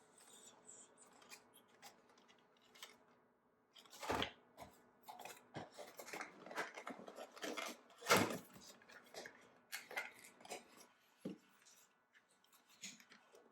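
Skincare products and their packaging being handled: irregular rustling, clicks and light knocks, with two louder clatters about four and eight seconds in.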